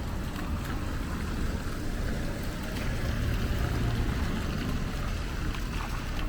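Rainy street ambience: a steady low rumble with a lighter hiss above it, a few faint clicks and faint distant tones.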